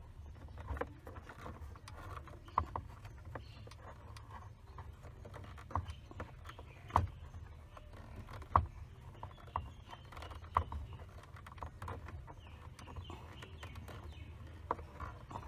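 Small hand-tool clicks and knocks as the screws fixing a car's dashboard face panel are tightened, with scattered sharp taps every second or so over a low steady hum.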